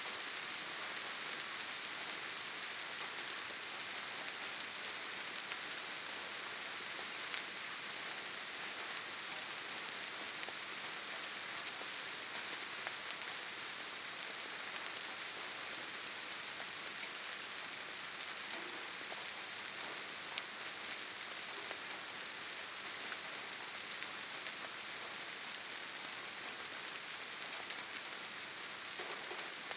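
Steady rain falling: an even hiss with a few faint, separate drop ticks.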